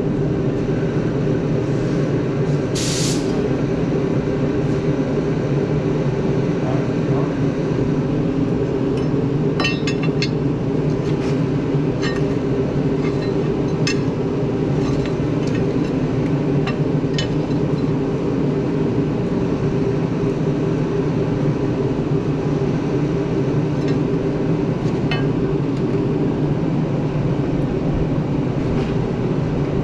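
Steady engine hum at a constant, even pitch, with a short hiss about three seconds in and scattered sharp metallic clinks between about ten and seventeen seconds in.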